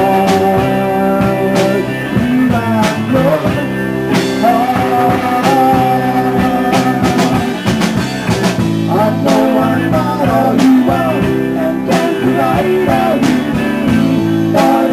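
A rock band playing, with drum hits, guitar and bass under a held, bending lead melody line.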